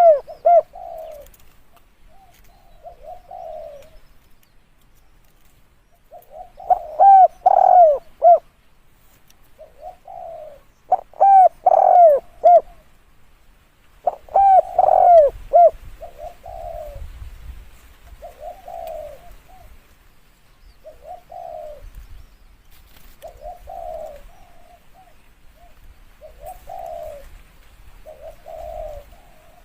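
Spotted dove cooing over and over. Loud multi-note coo phrases come about 7, 11 and 15 seconds in, with fainter coos between them.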